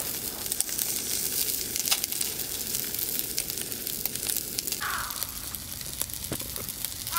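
Gyoza sizzling and crackling in a camp pan as they fry in a little water. Near the end there are a few light knocks as an aluminium mess tin is handled.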